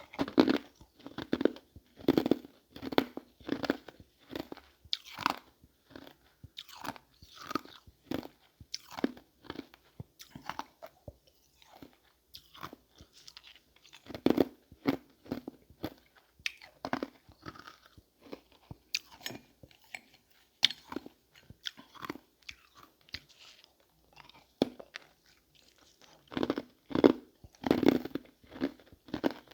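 Ice marbles being bitten and chewed close to the microphone: a long run of irregular crunches, several a second, with a few brief pauses between bites.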